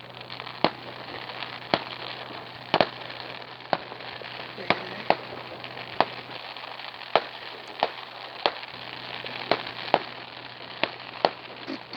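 Fireworks display: sharp bangs about once a second over a steady crackling hiss.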